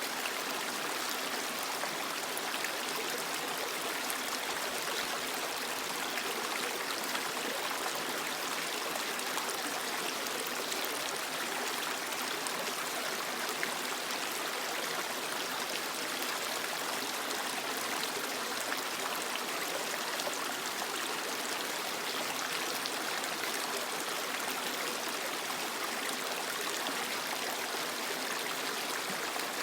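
A shallow creek flowing and splashing over rocks, a steady, even rush of water.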